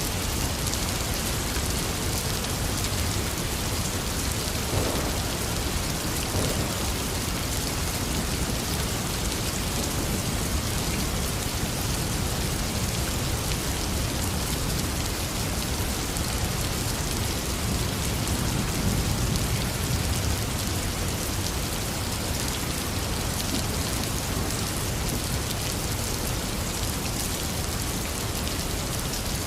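Heavy rain falling steadily, a dense even hiss of drops. A low rumble of thunder swells briefly about two-thirds of the way through.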